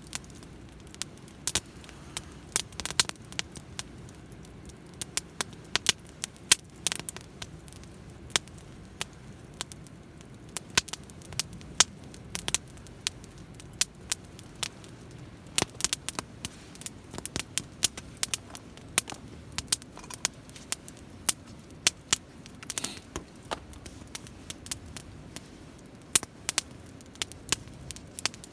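Wood campfire burning and crackling, with frequent irregular sharp pops and snaps over a low steady rumble.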